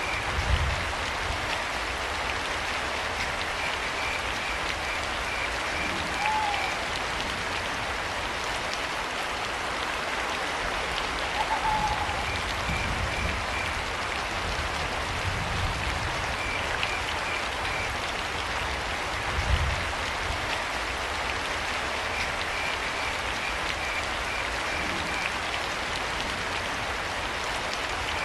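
Steady rain falling, with crickets chirping in short pulsed trills that come and go every few seconds. Two brief higher calls stand out, about six and eleven seconds in, and a few low dull thuds sound, one near the start and one about two-thirds of the way through.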